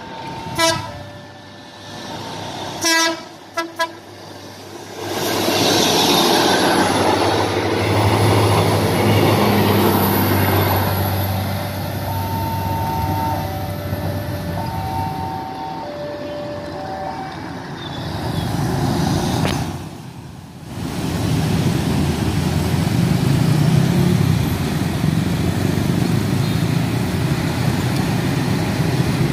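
Diesel commuter train sounding its horn in a few short toots, then running past with a steady rumble. Later, road traffic starts up with motorcycles and a truck.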